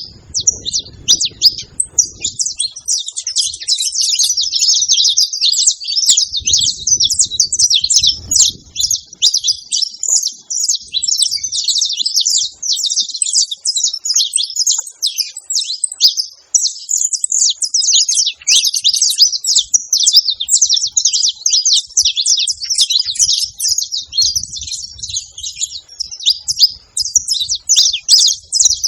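Saffron finch (canário-da-terra) song: a rapid, nearly unbroken stream of high chirping notes.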